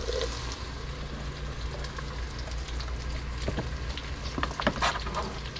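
Onions sizzling steadily in salt-pork grease in a pot on the stove as diced red potatoes are dropped in, with a few sharp knocks and scrapes of a knife on a cutting board near the end, over a steady low hum.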